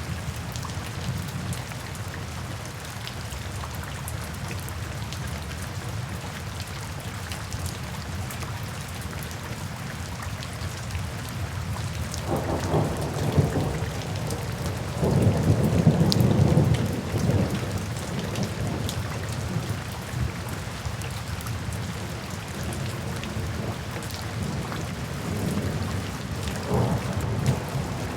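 Steady rain with thunder rumbling low, loudest about halfway through and again near the end.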